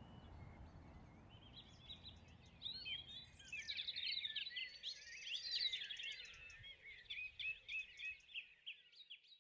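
Songbirds singing: a busy run of quick chirps and warbling phrases that builds a second or two in and fades out at the end, over a faint low rumble that dies away.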